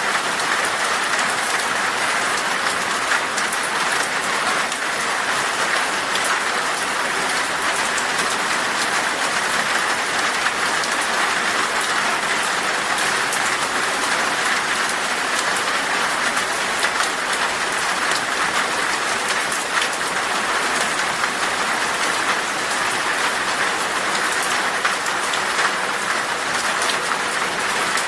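Heavy rain falling on glass: a dense, steady hiss of drops with many fine, sharp taps of individual drops striking the pane.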